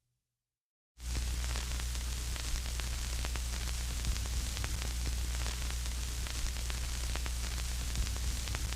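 Steady static hiss over a low hum, with scattered faint crackles, starting after about a second of silence.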